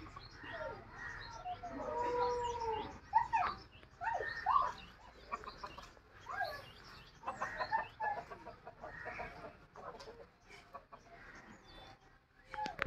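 Birds calling: many short, overlapping calls throughout, with higher small chirps mixed in.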